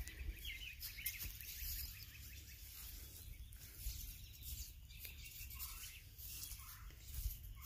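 Faint birds chirping, over a low steady rumble.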